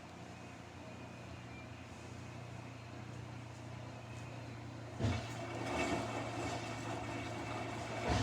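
Samsung front-loading washing machine running a warm-water wash cycle with a jacket inside: a steady low motor hum, then about five seconds in a thump as the washing sound grows louder and fuller, with another thump near the end.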